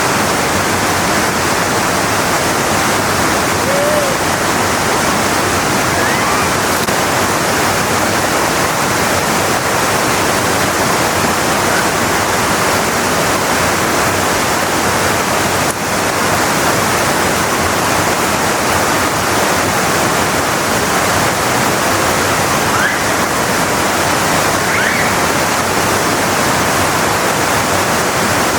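Kamba Falls waterfall: a steady, loud rush of falling water, with a few faint, brief calls over it.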